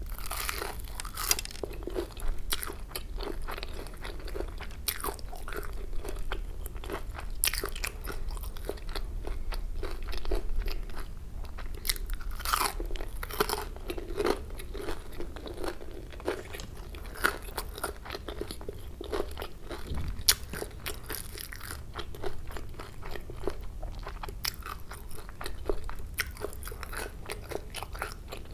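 Close-miked biting, crunching and chewing of a deep-fried, crumb-coated kurkure chicken momo, with many sharp crisp crackles throughout.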